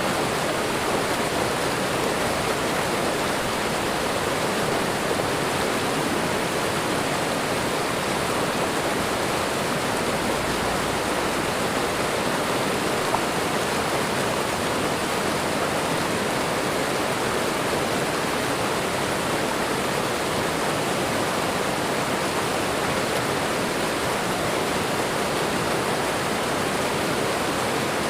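Waterfall and running water: a steady, even rush that does not change.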